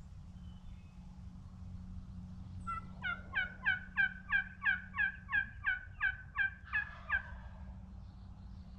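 Turkey yelping: a steady series of about fourteen yelps, about three a second, lasting some four seconds.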